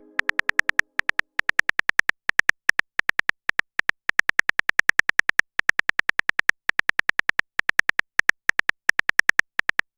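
Phone keyboard typing sound effect: rapid taps at about five or six a second, in runs with short pauses, as a text message is typed out.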